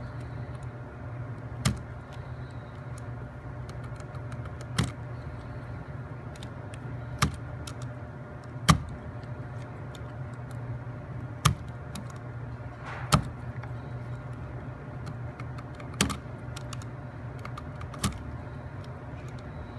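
Wooden toothpick pins being cut off flush on a plywood puzzle part, each cut a short sharp snap; about eight snaps come at irregular intervals of a second and a half to three seconds.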